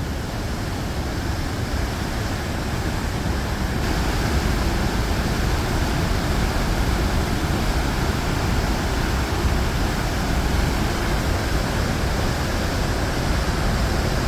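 Steady rushing of the Pailón del Diablo waterfall, a heavy, high waterfall, as a loud even noise that grows a little louder about four seconds in.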